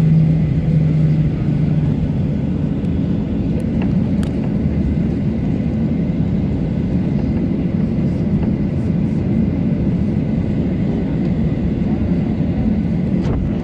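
Ryanair Boeing 737-800 with CFM56 turbofan engines, heard as a steady, loud low rumble from inside the cabin, with a hum that fades in the first second or two. The sound cuts off suddenly at the end.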